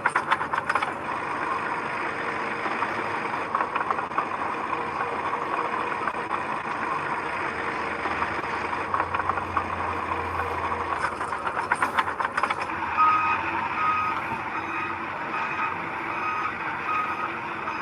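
Heavy construction machinery running, with bursts of clanking, and from about three-quarters of the way through a reversing alarm beeping at a steady rhythm.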